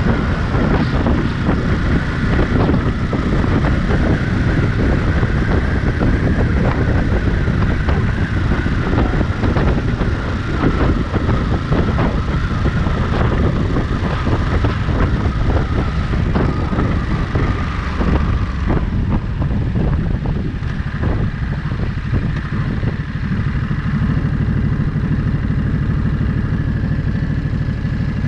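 Ducati Monster 937's 937 cc L-twin engine running under way, with wind rushing over the microphone. About two-thirds of the way through, the wind noise falls away and the engine settles to a steady idle.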